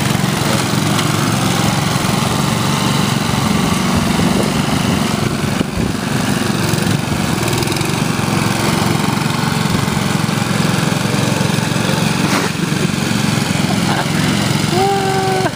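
Ariens lawn tractor's 8 hp Tecumseh single-cylinder engine running steadily. A short pitched tone rises over it about a second before the end.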